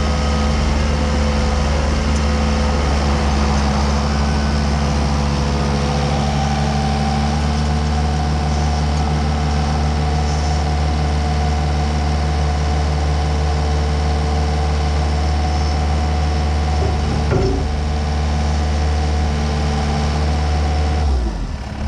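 Komatsu skid steer's diesel engine running steadily at a constant speed. Just before the end its pitch drops sharply as the engine is throttled down.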